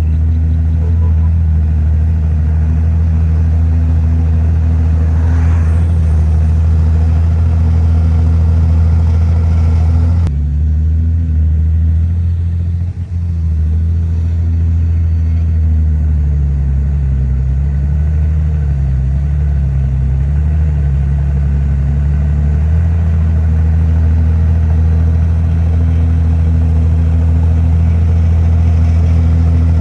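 Heavy diesel engine of earthmoving machinery running steadily under load. About two-thirds of the way through, its pitch wavers and dips for several seconds.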